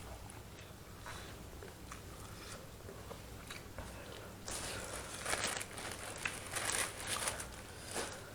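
A person eating spicy curry instant noodle soup: soft chewing and mouth clicks, then a run of louder, hissing eating noises about halfway through. A steady low hum sits underneath.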